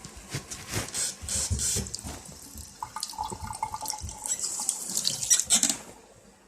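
Water splashing and running in irregular bursts, stopping about six seconds in.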